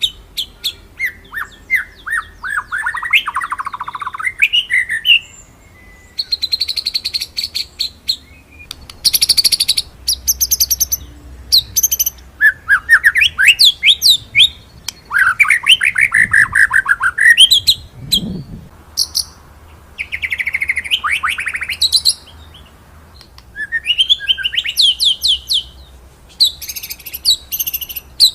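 White-rumped shama singing in a string of phrases: fast rolling trills of rapidly repeated notes alternating with sharp, high, piercing 'shooting' notes, each phrase a few seconds long with a pause of about a second between them.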